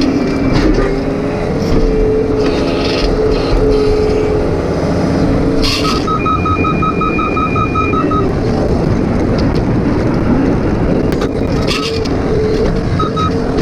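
John Deere 135 excavator running under load with a steady engine drone. About six seconds in there is a sharp clank, followed by a rapid beeping alarm at about five beeps a second for a couple of seconds. Short runs of the same beeping return near the end.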